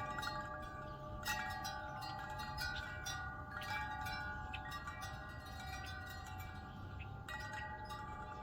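Wind chimes swaying in a breeze, struck in clusters every few seconds, with several pitched tones ringing on and overlapping between the strikes.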